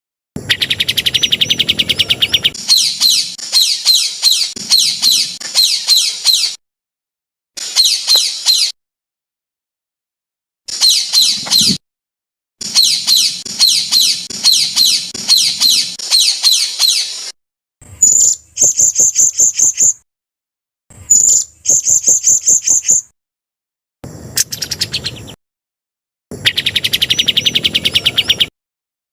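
Edited masteran compilation of songbird song: a string of short snippets of rapid, high chirping and trilling, each cut off abruptly with dead silence between. Several different song patterns follow one another, among them a fast trill and a quick run of sharp high notes near the middle.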